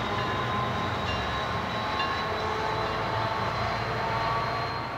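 A train running by: a steady rumble with faint, steady high-pitched tones above it.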